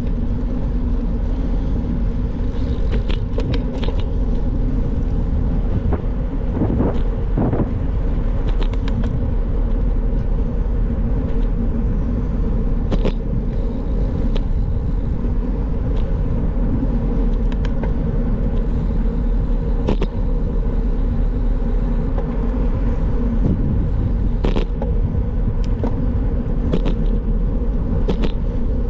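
Bicycle riding noise: wind buffeting the microphone and tyres rumbling on the road in a steady loud rumble, with scattered short knocks and clicks from bumps along the way.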